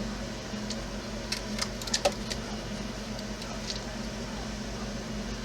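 Light clicks and taps of a small screwdriver and plastic parts as a rod end is screwed to a servo, a quick cluster of them about two seconds in, over a steady electrical hum.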